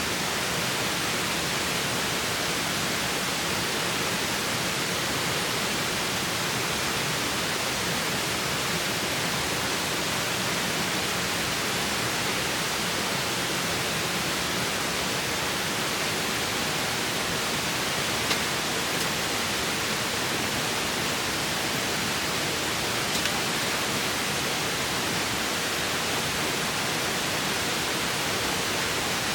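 Steady rushing of a river's flowing water, even and unbroken, with two faint clicks partway through.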